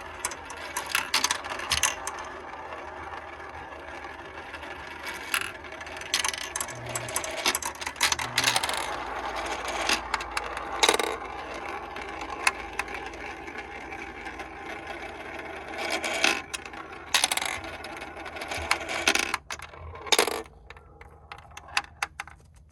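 Marbles rolling down a plastic Kumikumi Slope marble run: a steady rolling rattle full of small clicks and clacks, with several louder knocks as they drop between track pieces. The sound thins out near the end.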